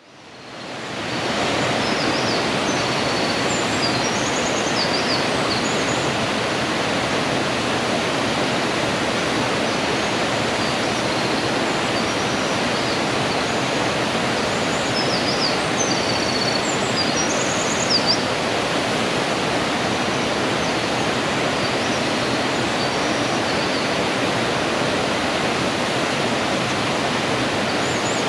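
Mountain stream rushing steadily, fading in over the first second or two, with small birds chirping briefly and high above it now and then, most of all near the start and around the middle.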